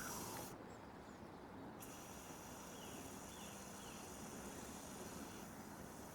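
Faint, steady outdoor background noise with a few faint, brief chirps, likely distant birds.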